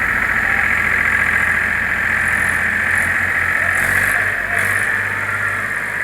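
Tractor engine running steadily, its low firing note shifting about halfway through.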